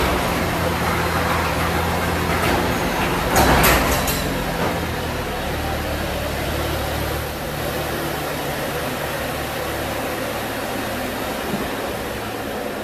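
A garage door opener hums steadily as the door rises. About three and a half seconds in, a car engine starts with a short loud burst and then idles.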